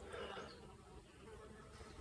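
Faint outdoor ambience with a faint steady buzz, a little louder at the start.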